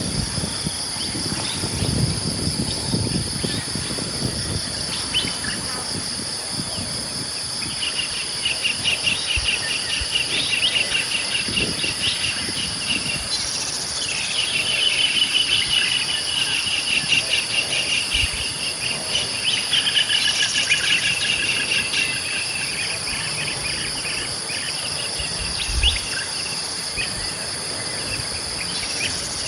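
Steady insect chorus of high, continuous buzzing, with rapid chirping trills of birds coming in about a quarter of the way through and fading out about three-quarters in.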